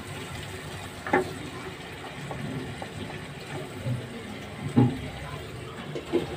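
Yogurt-marinated chicken sizzling with a steady hiss in a non-stick wok, while a plastic spatula knocks and scrapes against the pan a few times. Right at the end a glass lid is set down on the pan with a louder clank.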